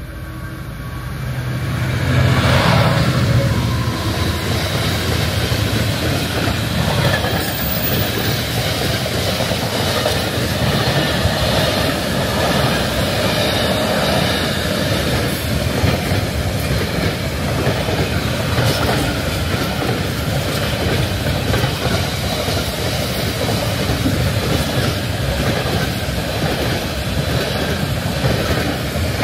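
A train running past close by: the noise builds over the first two seconds, then holds steady and loud.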